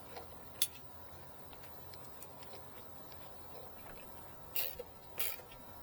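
A few faint clicks and taps of a screwdriver and a wire being worked into the wall charger's terminal block: one sharp tick about half a second in and two more near the end.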